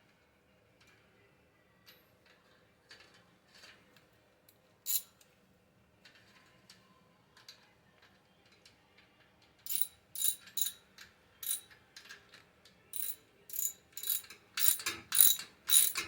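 A 3/8-drive ratchet with a 15 mm socket clicking as the nut on an exhaust clamp is tightened. A few faint clicks at first, then from about ten seconds in a steady run of sharp clicks, about three a second, which get louder near the end.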